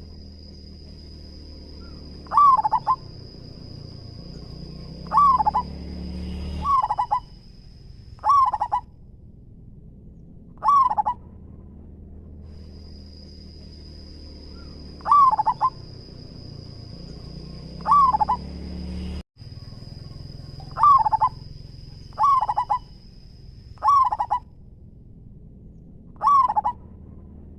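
Zebra dove (perkutut) cooing: about eleven short phrases of quick coos, each about half a second long, repeated every couple of seconds.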